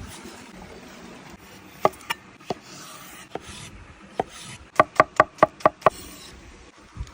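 Knife chopping on a wooden board: a few separate cuts, then a quick run of about seven chops in just over a second.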